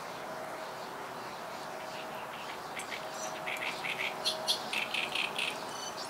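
A songbird sings a quick run of short, high chirps starting a little before halfway through, over a steady outdoor background hiss.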